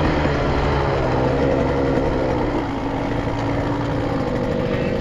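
Motorcycle engine running at low, steady revs, its pitch easing down slightly.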